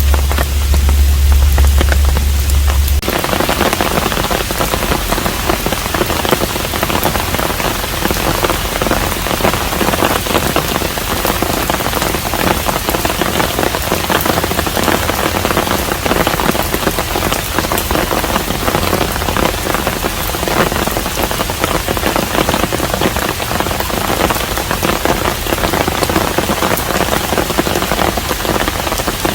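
Steady rain falling on a hanok, with many individual drops pattering. A deep low rumble under the rain stops abruptly about three seconds in, and from there the rain is denser and brighter.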